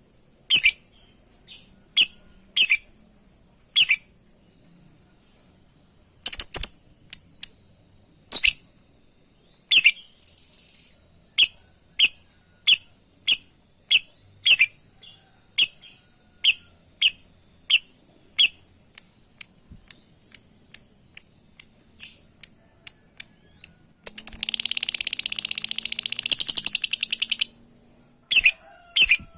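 Lovebird calling to a companion: short, shrill chirps, spaced out at first and then repeated in a steady series of one or two a second. About three-quarters of the way in comes a rapid chattering run of notes lasting about three seconds, followed by more single chirps.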